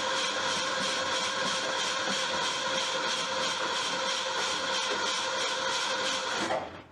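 Starter motor cranking the car's 351 V8 over in an even rhythm without the engine catching, then cutting off about six and a half seconds in.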